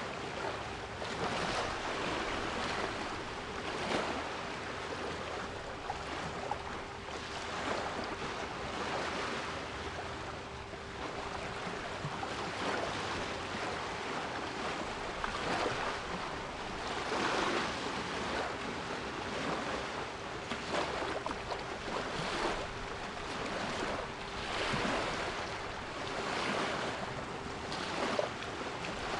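Sea waves washing in continuously, with a surge every few seconds, under a steady 396 Hz pure tone.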